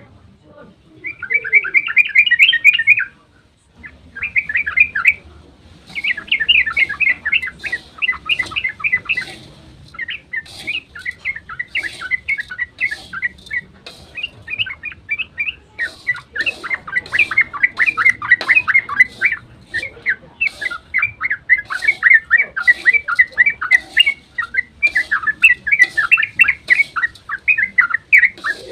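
Yellow-vented bulbul (trucukan) singing a rapid, excited chattering song of quick bubbling notes. It comes in short bursts with brief pauses early on, then runs almost without a break through the second half.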